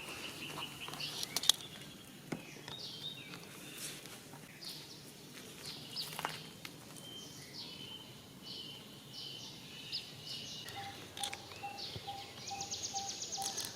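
Outdoor ambience of birds chirping and calling in short high notes and down-sweeps, with a few sharp clicks in the first couple of seconds, the loudest about a second and a half in. From about eleven seconds a pulsing call repeats several times a second, joined near the end by a fast high trill.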